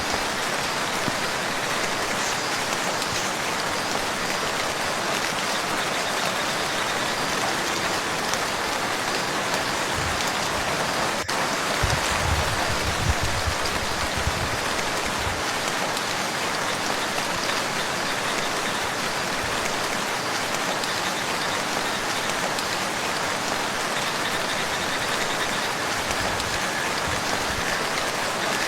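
Steady rain falling on a lake's surface, an even hiss of drops throughout, with a few low thumps about twelve seconds in.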